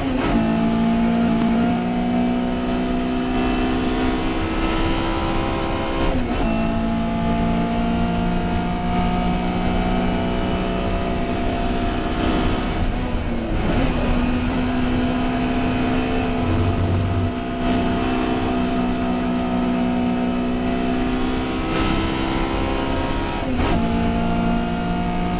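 Touring race car's engine running hard at near-steady revs, its note held level for several seconds at a time. It is broken by short dips three times, lifts or gear changes.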